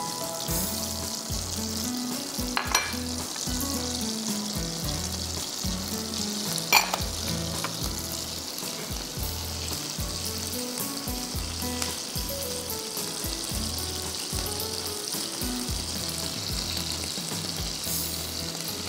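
Food frying and sizzling in a pan as it is stirred, a steady hiss throughout, with low background music underneath. Two sharp knocks, the louder one about seven seconds in.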